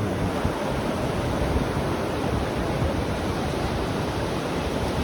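Sea surf washing on the beach, a steady rushing noise.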